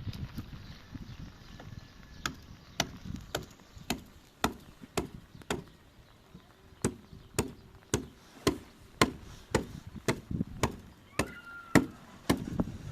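Rhythmic sharp blows on wood, about two a second, with a short pause about halfway through.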